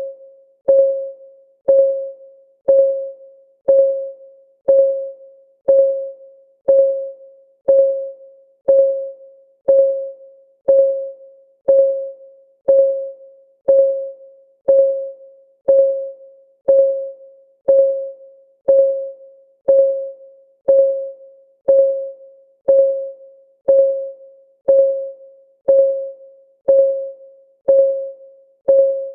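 Timer's clock-ticking sound: a steady tick about once a second, each tick a short click with a brief ringing note that fades before the next.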